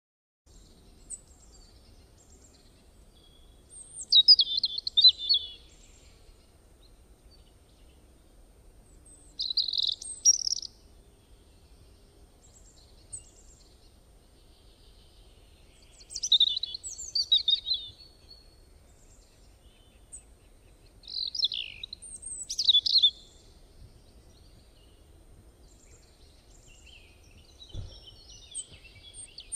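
A songbird singing in short high chirping phrases, four bursts several seconds apart, over a faint low outdoor background hum.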